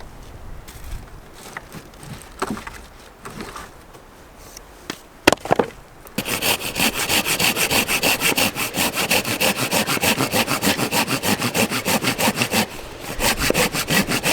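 A few scattered knocks, then a saw cutting fallen wood for firewood with quick, even back-and-forth strokes, about four or five a second, starting about six seconds in and pausing briefly near the end.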